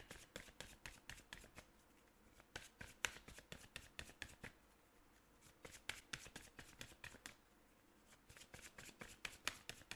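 Oracle cards being hand-shuffled: quick runs of soft card flicks and slides in four bursts, with short pauses between them.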